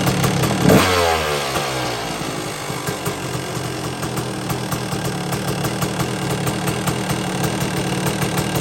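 1992 Yamaha YZ250 single-cylinder two-stroke dirt bike engine, running just after a cold start: a quick throttle blip about a second in, its pitch falling back, then a steady idle.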